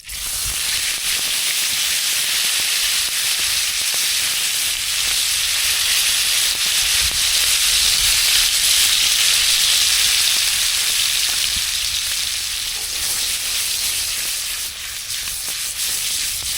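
Ribeye steak sizzling loudly and steadily as it cooks, a dense hiss that cuts in suddenly at the start and eases a little near the end.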